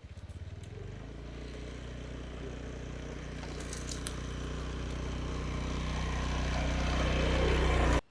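An engine running steadily with a low hum, growing louder over several seconds, then cutting off abruptly near the end.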